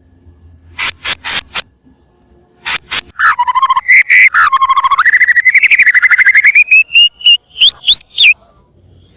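White-rumped shama (murai batu) singing loudly: a few sharp clicking notes, then a long, rapid trill that slowly climbs in pitch over about four seconds, ending in several quick rising whistles.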